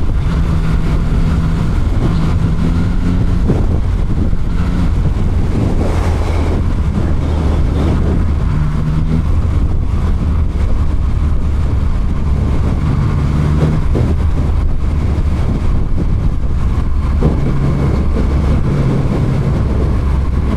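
Motorcycle engine running at road speed, heard through a microphone inside the rider's helmet with wind noise over it. It is a steady low drone whose tone comes and goes as the ride goes on.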